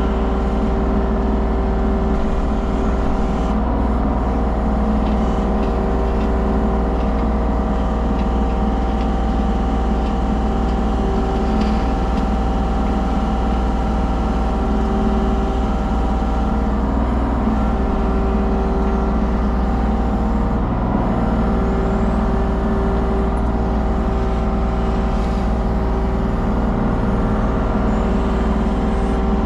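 Mini excavator's diesel engine running steadily with its hydraulics in use as the machine fine-grades soil.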